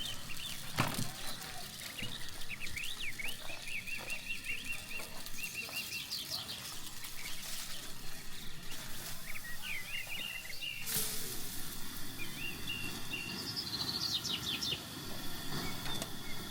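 Small songbirds chirping and trilling in quick runs of high notes, over a steady background hiss, with a brief sharp knock about a second in and another about eleven seconds in.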